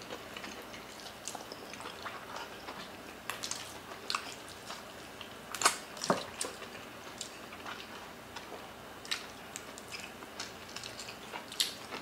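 Close-miked eating sounds: chewing and wet mouth smacks, with fingers working saucy oxtail kare-kare and rice, as scattered soft clicks and squelches, the sharpest about six seconds in.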